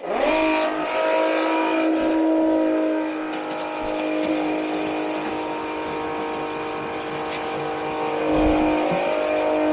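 Wet/dry shop vacuum switched on and running with a steady motor whine. It is sucking water out of the water heater's drain through a hose.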